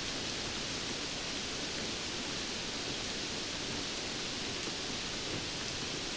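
Steady rain falling, an even hiss without separate drops or other events.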